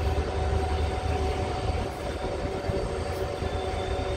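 ICF passenger coach running along the track, heard from inside the coach: a steady rumble of wheels on rails with a faint steady whine over it.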